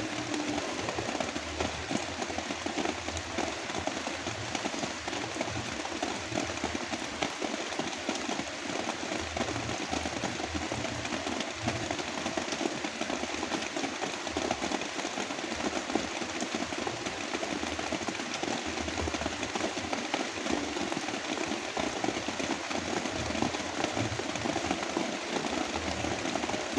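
Heavy rain falling steadily, a dense even hiss with no breaks, layered with brown noise.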